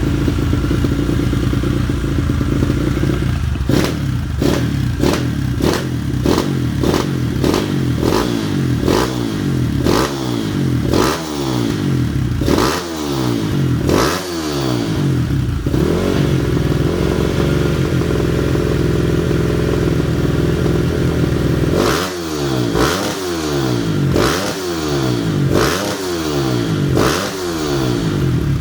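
Kawasaki KLX single-cylinder dirt-bike engine, bored up and fitted with a Norifumi Rocket 4 aftermarket exhaust, idling and being blipped. The throttle is blipped about once a second, a dozen times, then the engine idles for several seconds, then it is blipped again about seven times, each rev rising and falling quickly.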